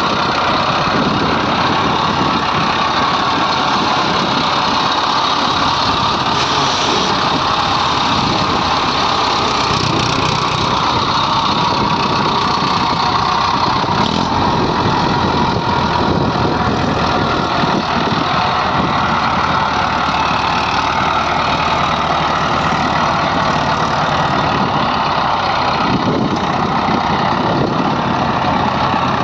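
Diesel engines of a JCB 3DX Xtra backhoe loader and farm tractors running steadily and evenly, without pauses.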